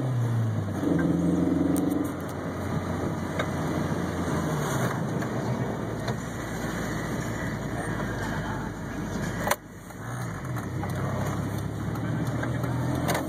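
1993 Ford Festiva's 1.3-litre four-cylinder engine heard from inside the cabin, pulling at high revs for the first couple of seconds and then dropping to a low idle hum as the car coasts and slows, over road noise. A sharp click sounds about nine and a half seconds in.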